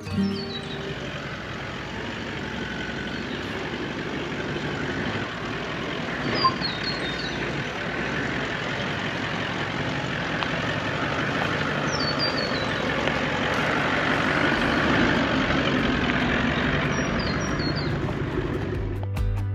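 Steady road and engine noise of a vehicle driving along, slowly growing louder, with a faint short high chirp every five or six seconds.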